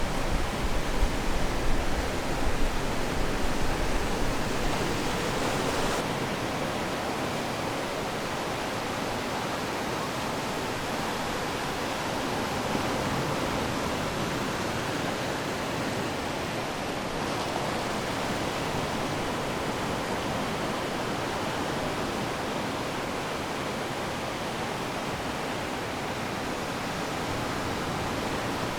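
Ocean surf: a continuous wash of waves on the shore. For the first six seconds there is a low rumble and the level rises and falls unevenly. The sound then changes abruptly to a steadier, even wash.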